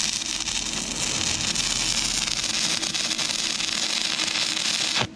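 Stick-welding arc from an inverter arc welder burning a 6011 rod on thin, rusty, painted steel: a steady crackling hiss that cuts off abruptly near the end as the arc is broken.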